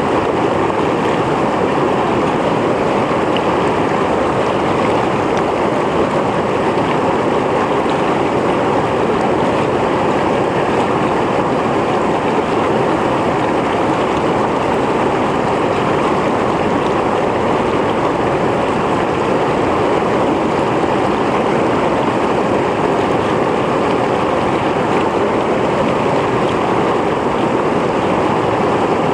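Mountain stream flowing over rocks: a steady, even rush of water with no let-up.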